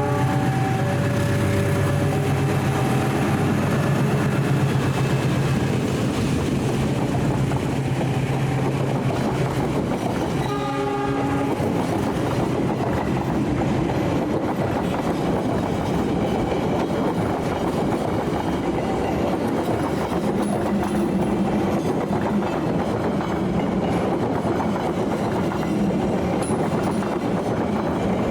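Locomotive-hauled passenger train running past, its wheels clattering over the rails with a steady rumble. About ten seconds in, a short horn blast sounds.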